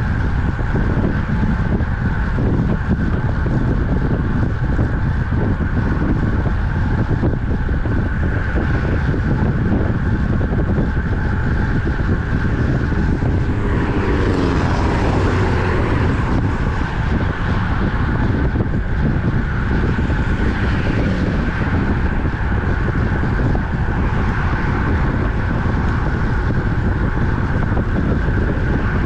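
Steady wind rumble on the microphone from riding a road bicycle at speed, with traffic noise. About halfway through, a motor vehicle swells past and fades away.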